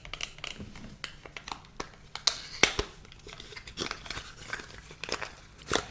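Cardboard and paper packaging of an advent-calendar compartment being torn open and handled: crinkling and tearing with many small sharp clicks and taps. The loudest tap comes about two and a half seconds in, and another near the end.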